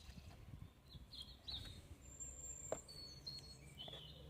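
Faint birdsong: a few short high chirps and two brief held whistles, over a steady low hum. A single soft click comes a little past the middle.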